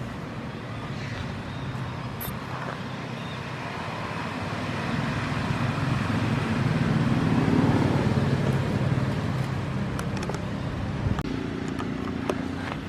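A motor vehicle's engine, swelling to its loudest about eight seconds in and then easing off, as of a vehicle passing close by.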